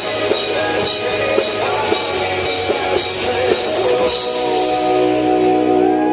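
Live rock band playing an instrumental stretch of a song: drum kit and guitars. The drums drop out about four seconds in, leaving held chords ringing.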